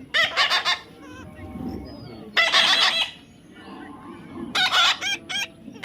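Parrot squawking in three bursts: a quick run of calls at the start, a longer call about halfway, and a few rapid calls near the end.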